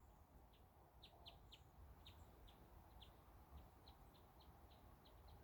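Faint songbird chirps: about fifteen short, high notes at uneven intervals, over a low wind rumble.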